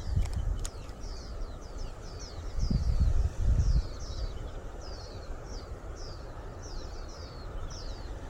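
A bird singing a rapid run of short, high, downward-sweeping notes, about three a second, over low rumble of wind on the microphone that swells about three seconds in. A couple of sharp clicks sound near the start.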